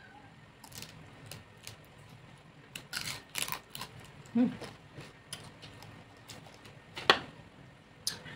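Close-mouthed eating sounds of lechon (whole roast pig): chewing and biting the skin, with scattered crackles and wet mouth clicks, the loudest a sharp smack about seven seconds in. A brief hummed 'mm' comes about halfway.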